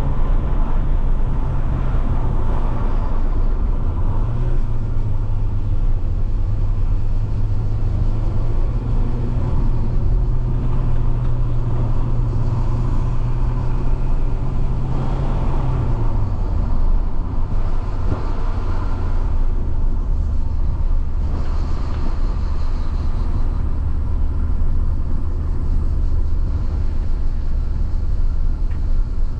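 Alfa Romeo 156 1.8 Twin Spark four-cylinder engine pulling steadily at fairly high revs on the move, over road and wind noise. About 16 seconds in the revs fall to a lower steady drone.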